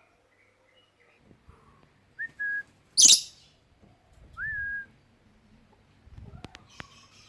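A lovebird gives one loud, shrill screech, set between two short whistled notes, the second of which rises and then falls. Faint chatter and a few clicks follow near the end.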